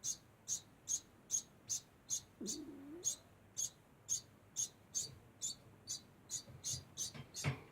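Degu giving short, high-pitched squeaks over and over at an even pace, about two a second. A single knock comes near the end.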